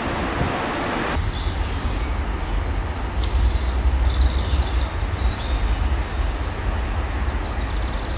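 A steady rushing noise that cuts off suddenly about a second in. Then a small bird sings a quick run of short, high chirps, about three or four a second, over a low rumble, with one more chirp near the end.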